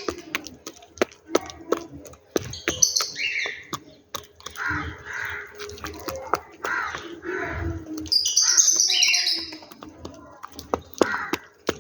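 Birds chirping and calling at a feeding spot, with many sharp clicks and taps throughout.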